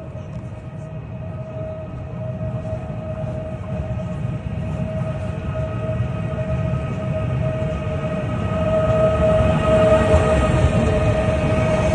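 High-speed electric train running: a steady low rumble with a constant whine, growing gradually louder.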